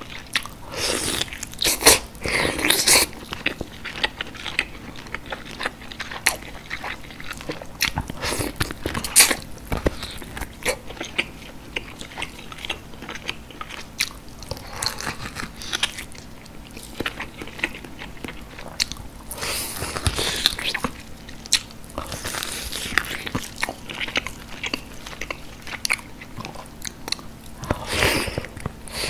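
Close-up mouth sounds of a person biting and tearing meat off a large boiled beef short rib bone and chewing it. Clusters of louder bites come every few seconds, with quieter chewing between them.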